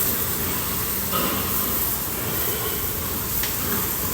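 Water spraying from a hose: a steady hiss.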